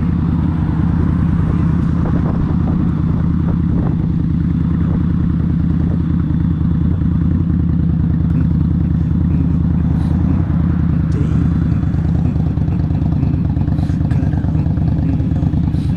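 Indian Scout's V-twin engine running steadily at low speed as the motorcycle rolls, heard close up from the rider's camera. A few light clicks come in the second half.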